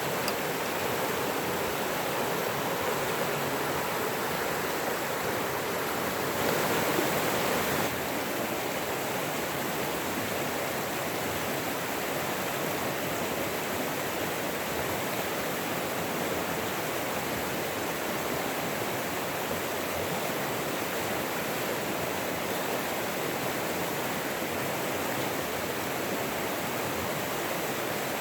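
Running water of a forest stream rushing steadily. It swells briefly a little louder about six and a half seconds in.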